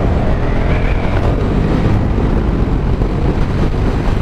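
Motorcycle riding along: the engine running steadily under a loud, even rush of wind on the microphone.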